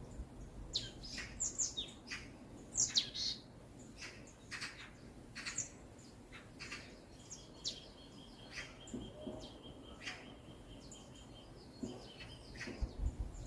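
Forest birds chirping and calling, with many short high notes overlapping. In the second half a thin, steady high note is held for several seconds.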